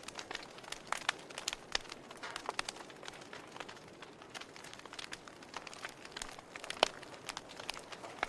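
Wood fire burning in a fireplace: irregular crackles and pops over a steady low hiss, with one louder snap near the end.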